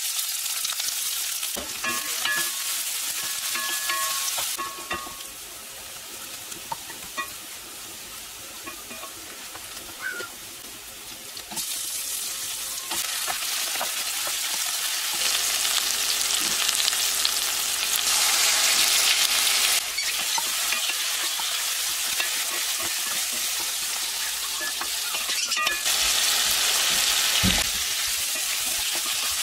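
Sliced onions and shrimp sizzling in hot oil in a metal pot, stirred now and then with a wooden spatula. The sizzle starts suddenly as the onions go in and grows louder about twelve seconds in.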